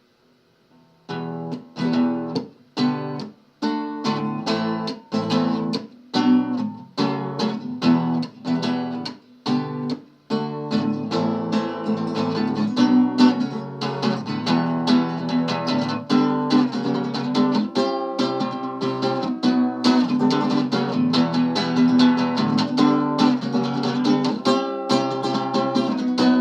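Acoustic guitar playing a song's introduction alone: short chords struck and cut off with brief gaps between them, then from about ten seconds in a continuous strummed rhythm.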